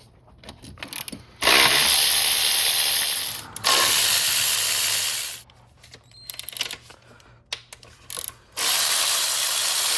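A ratchet wrench spinning out the 12 mm intake manifold bolts: three runs of rapid ratchet clicking, each about two seconds long, with short metallic clicks and clinks in between.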